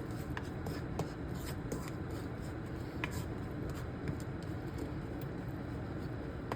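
Fried onions frying in hot oil in a karahi: a steady sizzle with a few small crackles and pops.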